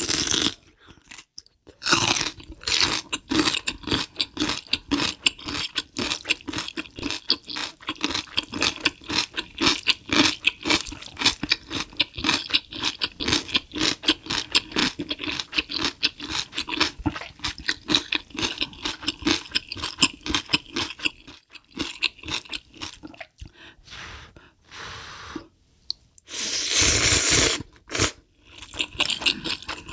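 Close-miked chewing and crunching of food, many quick crunches in a row for most of the stretch, then quieter with a louder rushing burst lasting a second or two near the end.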